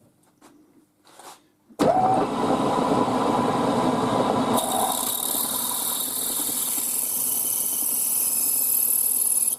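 Milling machine spindle motor switched on about two seconds in, spinning up with a short rising whine and then running steadily; a high hiss joins about three seconds later as the machine runs, and the sound cuts off sharply at the end.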